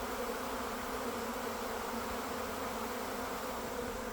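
Steady buzzing drone of a large mass of honeybees around a hive: a newly caught swarm invading an established colony.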